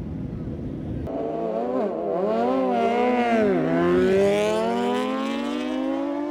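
Superbike engine at full throttle: the revs waver up and down for a couple of seconds, then the note climbs steadily as the bike accelerates away, loudest about four seconds in and then fading with distance.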